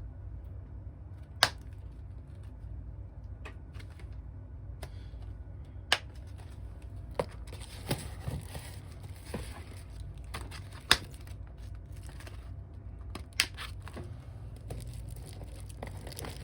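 Sharp, scattered clicks and taps of small tools and phone parts handled on a repair bench, about six of them standing out, with a stretch of crinkly rustling between about six and ten seconds in, over a steady low hum.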